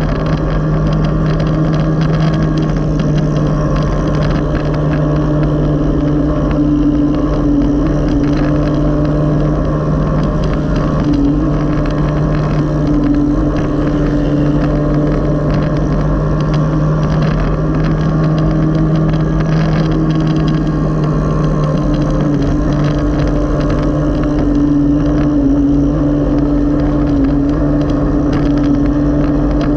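Motorcycle engine of a Digos-type sidecar tricycle running at a steady, even pitch while the tricycle cruises along the road.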